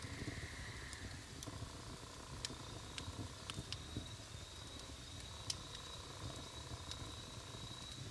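Wood fire burning, with a low rumble of flames and about eight sharp crackles and pops of burning wood scattered through it. A faint steady high whistle runs beneath.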